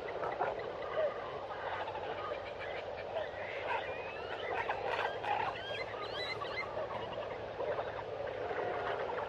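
Dense chorus of tropical forest birds: many overlapping chirps, whistles and short rising and falling calls, busiest in the middle few seconds.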